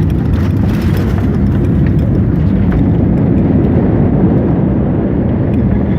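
Steady low rumble of a jet airliner's engines and airframe, heard from inside the passenger cabin as the plane rolls along the ground just after touchdown.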